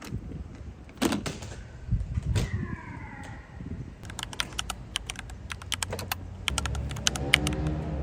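A run of sharp clicks and knocks, then, about six and a half seconds in, a small motorcycle engine, the Honda Super Cub 110's, starts and runs, rising in pitch near the end.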